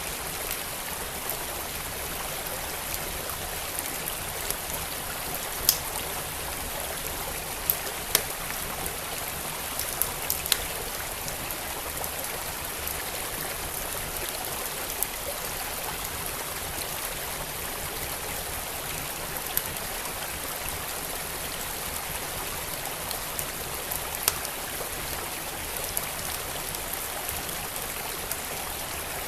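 Steady rushing of a flowing stream, with sharp crackles and pops from a burning wood fire scattered irregularly over it, a few close together early on and single ones further apart later.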